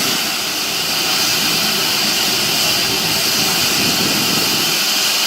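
Steady, loud hiss of escaping steam from a steam locomotive, typical of its safety valves blowing off.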